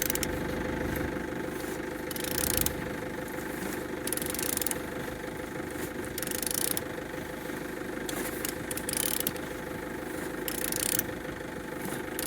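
Nissan QG15DE 1.5-litre four-cylinder engine running steadily at idle, with short bursts of hiss every couple of seconds.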